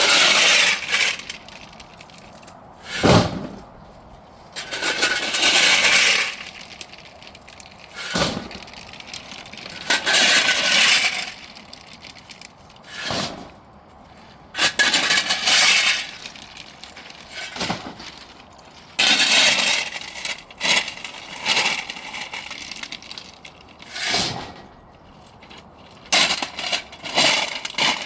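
Crunching and crackling of dry autumn leaves and twigs underfoot, in irregular bursts every two to three seconds, like slow steps through forest litter.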